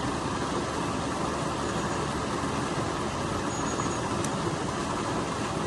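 Stream water rushing steadily through a channelled drop, a continuous even rush.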